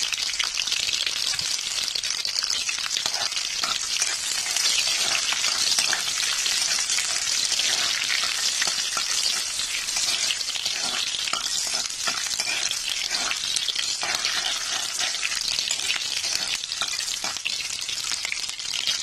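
Crushed garlic and green chillies sizzling in hot oil in a kadhai, a steady hiss, with the clicks and scrapes of a spoon stirring them against the pan.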